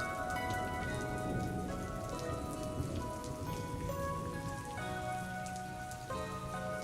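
Steady rain falling, with soft music underneath: held notes that change every second or so.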